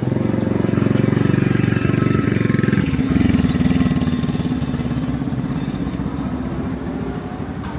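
A motor vehicle engine running close by in street traffic. It is loudest for the first three seconds, changes pitch about three seconds in, then fades gradually as it moves away.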